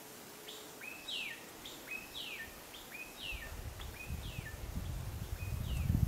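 A bird calling over and over, about once a second: each call is a short level note followed by a quick downward-sweeping note, five or six times. From about halfway in, a low rumble rises beneath the calls.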